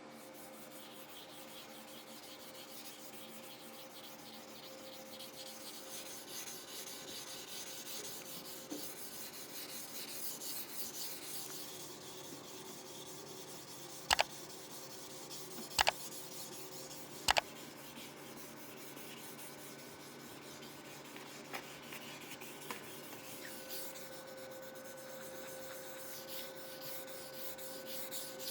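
Hand sanding a Damascus steel knife blade with abrasive paper: a steady rasping rub, broken by three sharp clicks in the middle.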